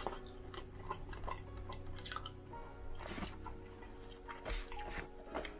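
Close-miked chewing and wet mouth sounds of a person eating rotisserie chicken, with scattered soft clicks and squishes.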